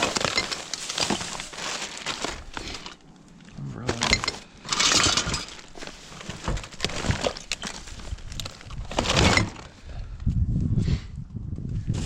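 Rubbish being rummaged through by hand: a busy run of clattering and clinking as items knock together, glass or crockery among them, with louder bursts about five and nine seconds in.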